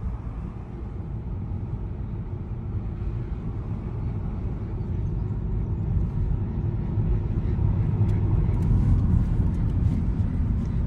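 A car driving, its steady low road and engine rumble growing gradually louder, with a few faint clicks near the end.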